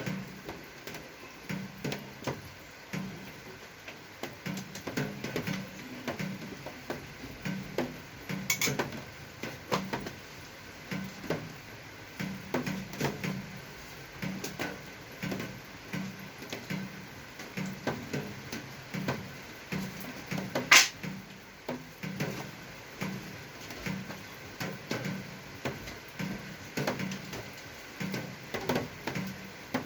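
Irregular small clicks, taps and knocks of things being handled, with one sharper click about two-thirds of the way through.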